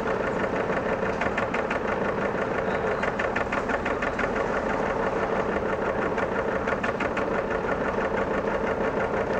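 Sailboat's auxiliary engine running steadily under way, with a fast even pulsing.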